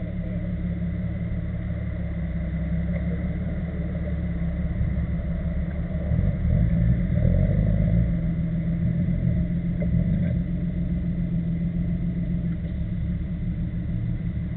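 Jeep Cherokee XJ's engine running as the 4x4 crawls over a muddy bank, with a low steady rumble that grows louder for a couple of seconds past the middle and then eases back.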